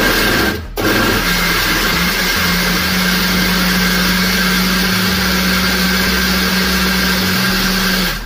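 Panasonic MX-GM1011 countertop blender running with a jar of yogurt, tomato and gram flour, blending it into a thin lassi. The motor starts, stops briefly about half a second in, then runs steadily and is switched off near the end.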